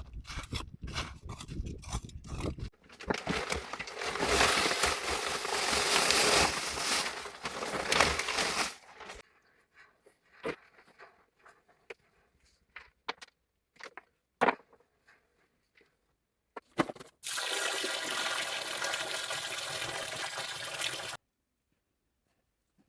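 Water rushing or pouring in two long stretches, the first about three seconds in and the second near the end, which cuts off suddenly. Crackling clicks come before them and scattered knocks fall between them.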